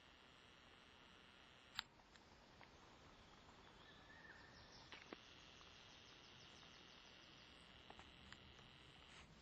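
Near silence, with a faint steady high hiss and a few soft clicks, one of them sharper a little under two seconds in.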